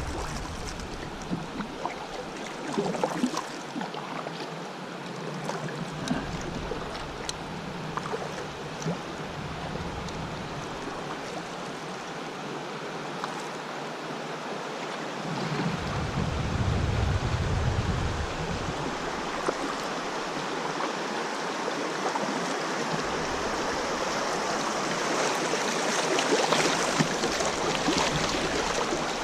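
Lower Salt River water running past a kayak, a steady rushing that grows louder and hissier near the end.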